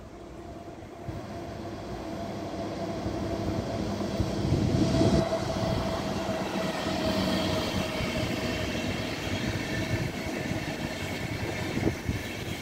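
Locomotive-hauled Intercity train passing: a red DB electric locomotive and its coaches. The rolling rumble and wheel noise build over the first few seconds, then carry on steadily with a steady whine.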